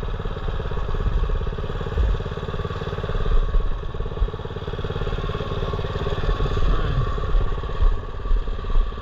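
Mini bike's small engine idling steadily, with an even rapid firing pulse.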